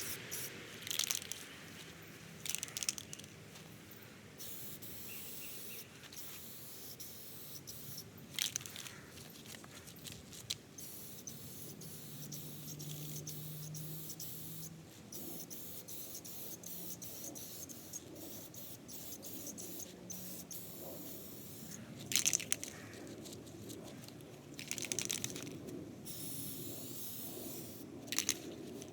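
Aerosol can of Rust-Oleum wheel paint spraying in short hissing bursts, about six of them, with faint rustling in between.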